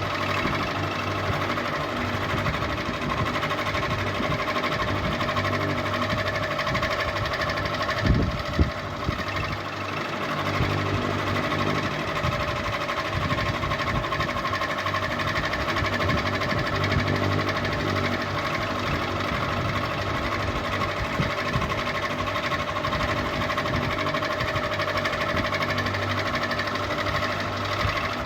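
Ceiling fan running: a steady motor hum and whir with a slow throb low down, and two short knocks about eight seconds in.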